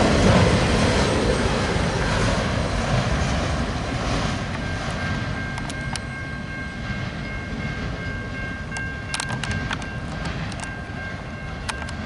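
CN freight train running on the rails, its rumble fading steadily as it moves away. A faint steady high tone comes in about a third of the way through, with a few sharp ticks near the end.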